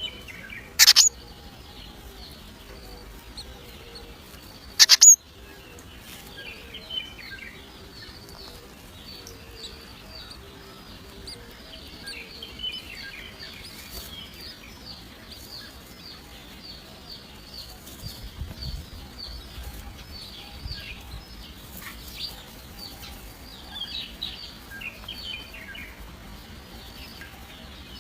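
Nestling birds chirping, a dense run of short, high calls repeating over and over. Two much louder, sharp cries stand out, one about a second in and one about five seconds in.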